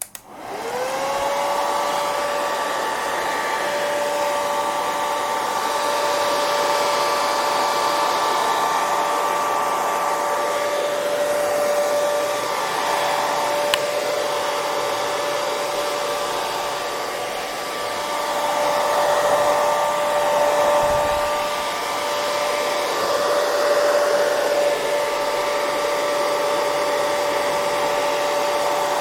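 Hair dryer switched on, its motor whine rising in pitch over about a second as it spins up, then running steadily: a whine over an even rush of blown air, with slight swells in loudness.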